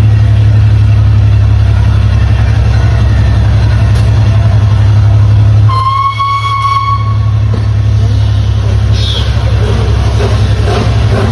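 A train running with a loud, steady low drone; about halfway through it sounds a single steady note on its horn for about a second.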